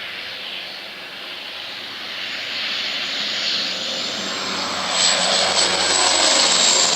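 Water bomber airplane flying in low, its engine noise growing steadily louder as it approaches and loudest from about five seconds in, with a high whine over the engine.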